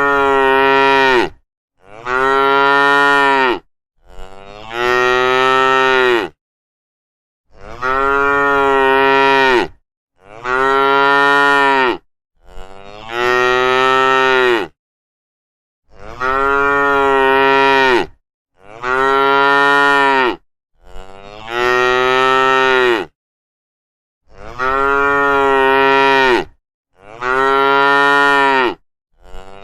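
Cattle mooing over and over: about a dozen long, level calls, each about two seconds, with short dead-silent gaps between.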